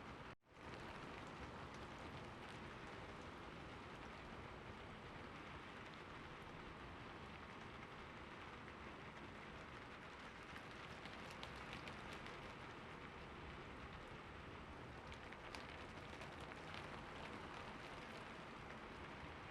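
Steady rain pattering on a surface, with sharper individual drops ticking in the second half. The sound cuts out for an instant about half a second in, like an edit splice in the track.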